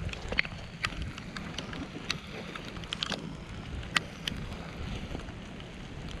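Wind buffeting the microphone in a steady low rumble, with scattered sharp ticks at irregular intervals, the sharpest about four seconds in.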